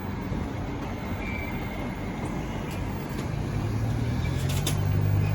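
Street traffic rumbling, with a motor vehicle's engine hum growing louder from about three and a half seconds in as it draws near.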